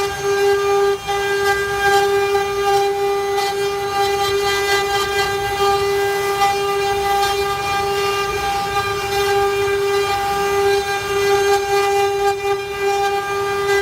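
CNC router spindle running at a steady, even pitch as it carves wood, with uneven cutting noise from the bit under the whine.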